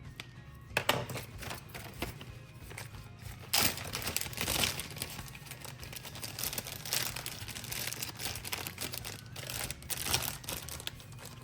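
A plastic zip-top freezer bag crinkling in irregular bursts as it is handled, over background music.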